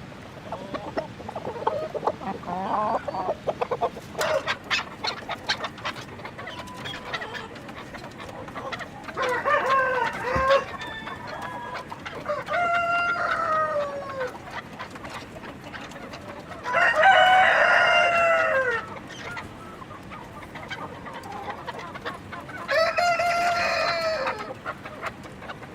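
Four rooster crows, each about two seconds long with a long held note that drops in pitch at the end, and shorter chicken clucks and calls between them.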